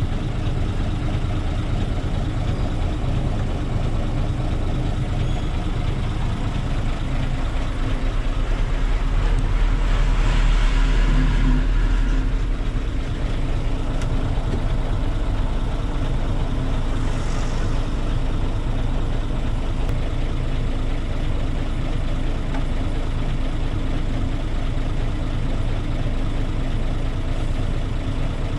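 Heavy truck's diesel engine running steadily with a deep rumble, which swells for a few seconds about a third of the way in. A short hiss comes a little past the middle.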